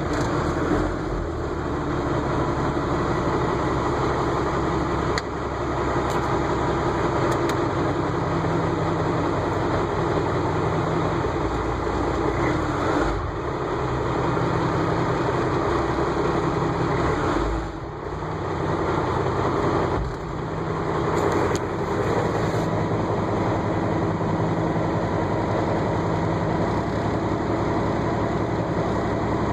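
A Komatsu pay loader's 5.9 Cummins six-cylinder diesel running at idle just after a cold start, with the engine still cold and unheated. The level dips briefly a few times, about 13, 18 and 20 seconds in.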